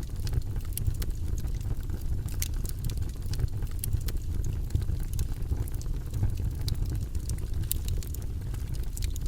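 Campfire crackling, with many short, irregular pops over a steady low rumble.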